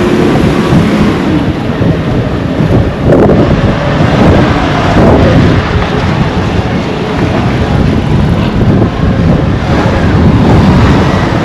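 Wind buffeting the microphone: loud, continuous wind noise.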